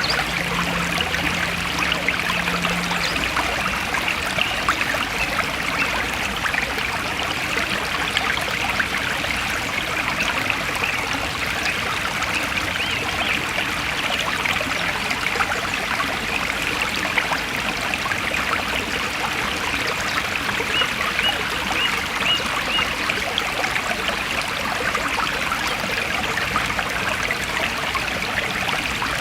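Forest stream running steadily: an even, unbroken rush and trickle of water.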